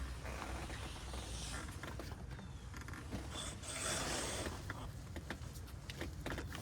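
Hand work on the engine, likely toward removing the fuel injectors: irregular scraping and rustling with a few light clicks of tools and parts, over a low steady hum.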